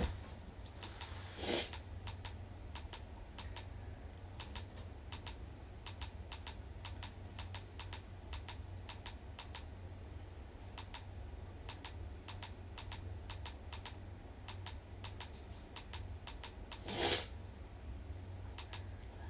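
Many light, irregular clicks and taps over a low steady hum, with a louder brief rustle about a second and a half in and another near the end.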